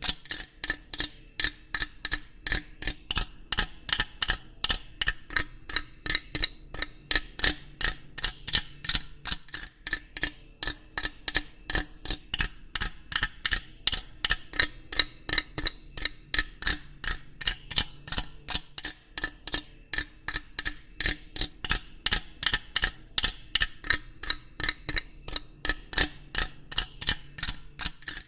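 Steady, rapid mechanical ticking: sharp, evenly spaced clicks at about three a second, like a clock mechanism.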